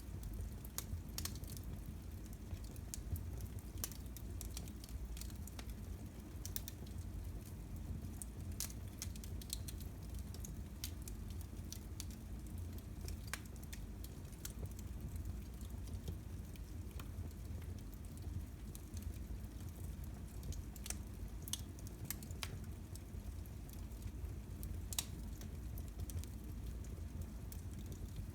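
Wood fire in a fireplace crackling: irregular sharp pops and snaps scattered over a low, steady rumble.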